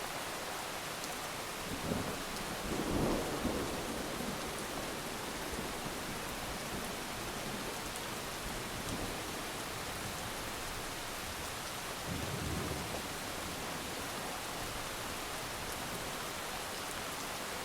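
Heavy rain falling steadily, with low rolls of thunder about two to three seconds in and again about twelve seconds in.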